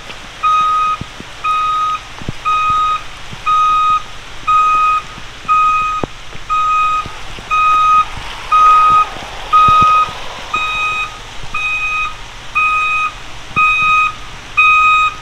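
Vehicle backup alarm beeping steadily, about two beeps a second, as a vehicle reverses.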